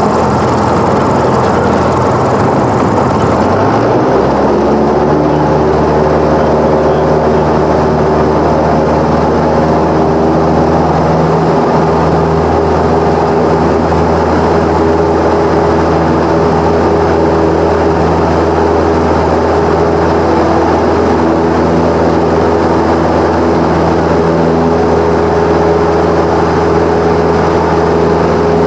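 Cessna 172's piston engine and propeller running steadily; the engine note rises about four seconds in, then holds at the higher pitch.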